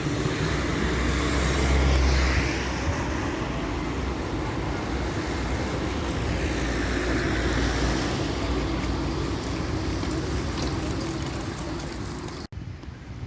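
Street traffic with a tram passing: a steady low rumble that swells about two seconds in, with faint whines that rise and then fall. The sound breaks off briefly near the end.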